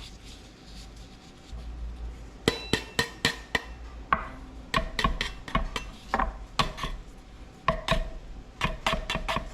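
A run of sharp, irregular knocks and clinks, several a second, some with a short ring, starting about two and a half seconds in.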